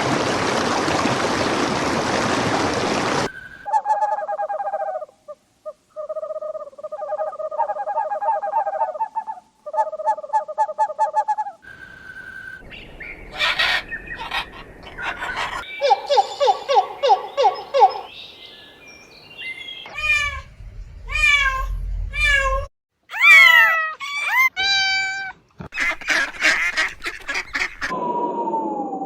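A run of short animal-call clips, one after another, mostly domestic fowl and other birds calling. It opens with about three seconds of steady rushing noise. Then come rapid repeated calls, and then chirps and squawks that glide in pitch.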